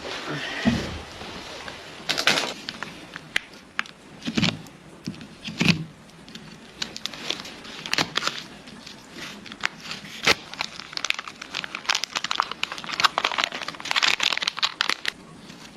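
A run of crackling, snapping and crinkling handling sounds. A few sharper snaps come in the first half, and it turns to dense rapid crackling in the second half.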